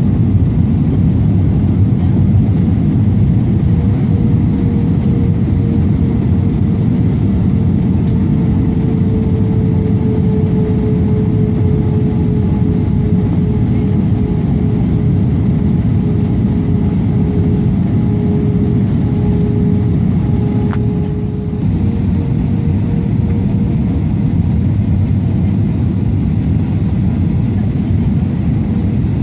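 Steady, loud drone of a small airplane, engine and rushing air together, with a steady hum running through it.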